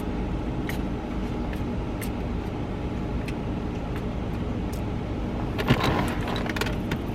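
Steady low hum of a car heard from inside the cabin, with a few faint clicks. About six seconds in comes a brief burst of hissing from a pump-spray car air freshener being sprayed.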